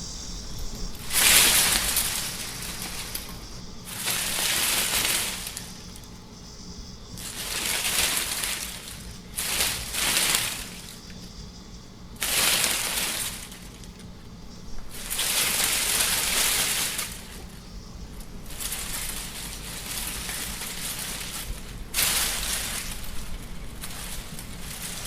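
Wind blowing in gusts, a rustling hiss that swells and fades every couple of seconds.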